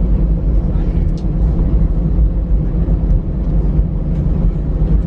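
Airbus A319 cabin noise heard from a window seat over the wing: the engines running with a steady low rumble and hum, and no change in pitch or loudness.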